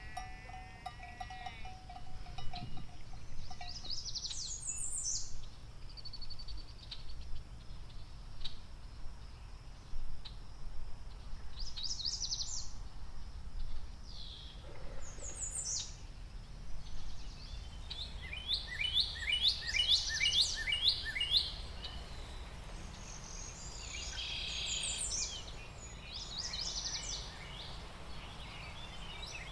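Wild birds calling over a steady low outdoor rumble: scattered short sweeping chirps, then fast runs of repeated notes in the second half. A brief wavering pitched sound opens the stretch.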